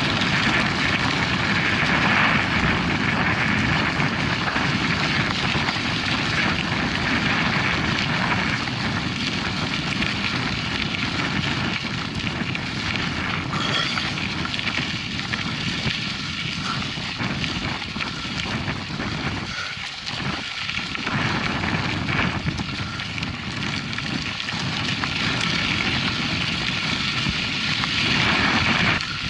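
Steady wind rushing over the microphone of a camera on a moving mountain bike, easing somewhat past the middle.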